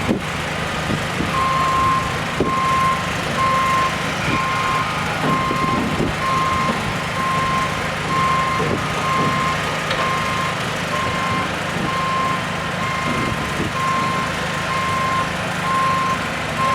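Back-up alarm on a SkyTrak telehandler beeping at an even pace, starting about a second and a half in, over its diesel engine running steadily as the machine reverses.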